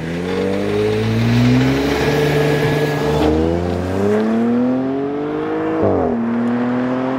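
Audi S7's 2.9-litre twin-turbo V6 accelerating hard, its exhaust note climbing in pitch through the gears. There are two upshifts, the second about six seconds in with a sharp burst as the pitch drops.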